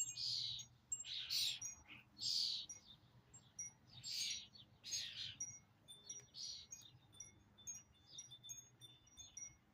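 A flock of small songbirds, adults and fledglings, calling: harsh, scratchy calls come about once a second for the first six seconds or so, over many short, high chirps that go on throughout.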